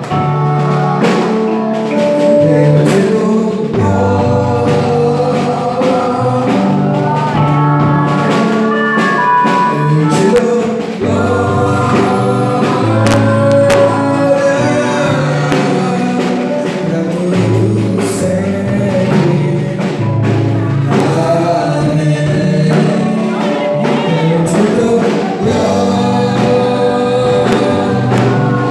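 Gospel worship music: singing with instrumental accompaniment and a steady beat.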